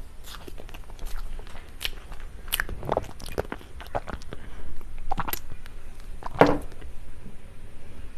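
Close-miked eating of cake: chewing and biting with sharp wet mouth clicks and smacks, one louder smack a little past six seconds in.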